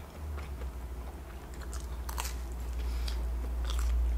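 Close-miked chewing of a mouthful of stuffed-crust pepperoni pizza, with scattered soft wet clicks and crunches of crust, over a low rumble that slowly grows louder.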